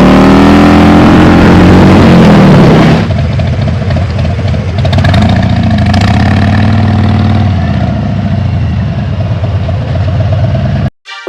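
Motorcycle engine running under way, loud, its pitch rising and then falling with the throttle over the first three seconds. After about three seconds the sound cuts to a quieter, steadier engine note.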